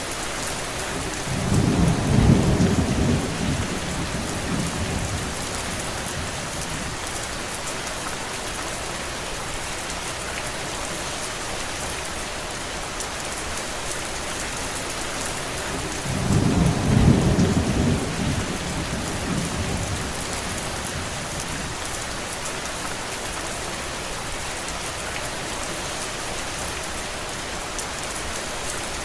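Steady rain, with two low rolls of thunder: one starting near the beginning and another about halfway through, each a few seconds long and swelling above the rain.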